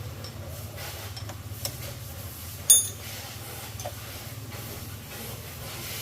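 Metal parts clinking: a few light clicks, then one sharp metallic clink that rings briefly about two and a half seconds in, over a steady low hum.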